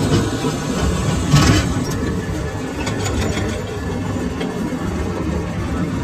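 Metal lathe running steadily in a workshop, with a brief metallic clatter about a second and a half in.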